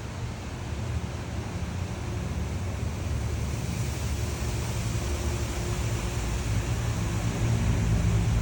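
Low engine rumble over a steady hiss, growing gradually louder.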